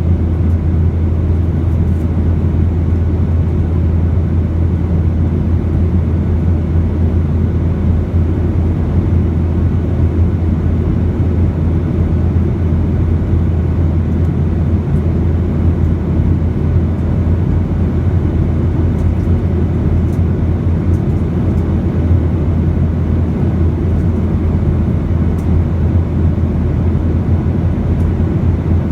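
Steady in-flight cabin noise of a Boeing 737: a constant low drone of engines and airflow.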